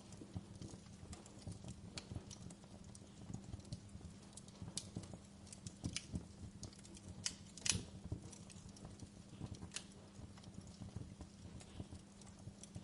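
Wood fire crackling in a fireplace: irregular snaps and pops over a low steady hum, with one louder pop near the middle.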